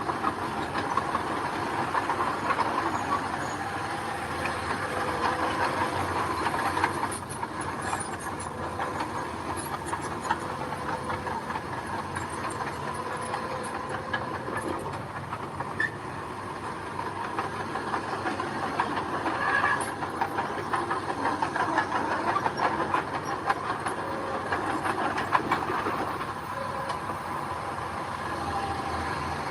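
Mini bulldozer working, its diesel engine running steadily under a continuous clatter of steel tracks.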